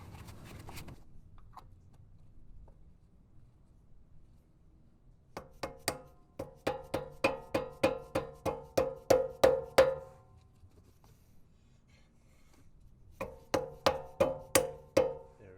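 Hammer tapping a metal dust cap onto a rear wheel hub: two runs of quick, evenly spaced ringing taps, about four a second, the cap being seated over the hub nut.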